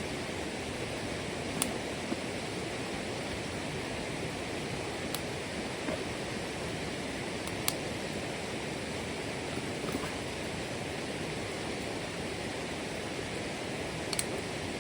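Steady, even rushing noise outdoors, with a few faint sharp clicks scattered through it.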